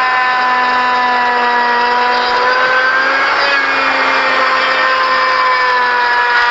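An electric power tool motor running continuously under load on wood, its hum wavering slightly in pitch as the load changes, over a steady hiss.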